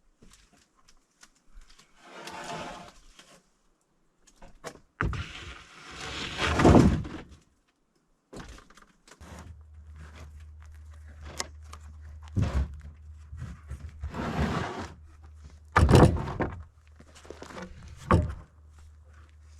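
Wooden 2x6 boards being slid and dragged out of a stack, with several hard wooden thunks as boards knock together and are set down. A steady low hum comes in about halfway through.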